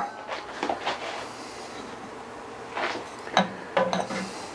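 Kitchen utensil knocking and clinking against a cooking pot and dishes as chili is served: a few light knocks, then a cluster of sharper clinks about three seconds in, some ringing briefly.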